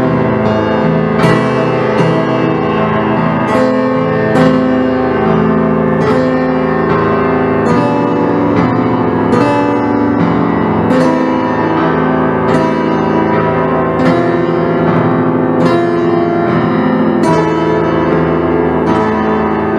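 Instrumental keyboard music, piano-like notes struck at a steady, unhurried pace over sustained chords.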